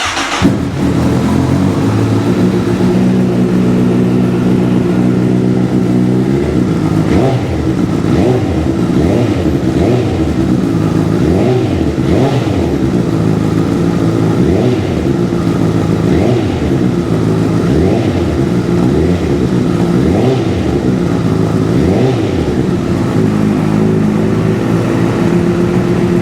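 2010 Honda CBR1000RR Fireblade's inline-four engine, fitted with a Delkevic titanium exhaust, starting and idling steadily, then revved with repeated throttle blips for about fifteen seconds before settling back to a steady idle.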